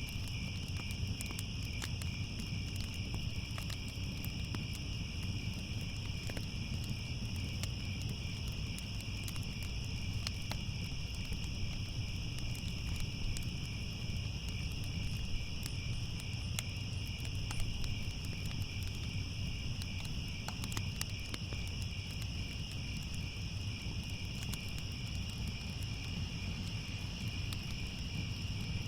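Steady chorus of crickets chirping without a break, over a low rumble, with scattered faint crackles from a wood fire.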